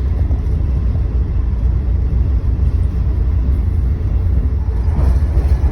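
Steady low rumble of a moving vehicle, with no breaks.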